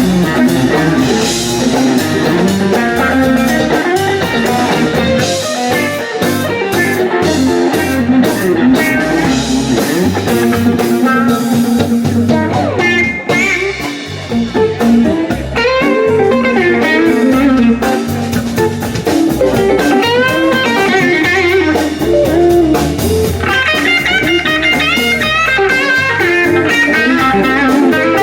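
Live blues band playing an instrumental passage, an electric guitar playing lead lines over bass and drums.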